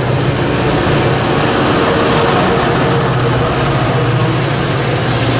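Caltrain bilevel passenger cars rolling past close by, then the diesel locomotive at the rear of the train passing with its engine running in a steady low drone.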